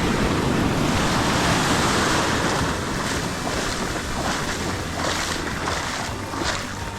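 Ocean surf breaking and washing up the beach in a steady rush that swells and eases, with some wind on the microphone.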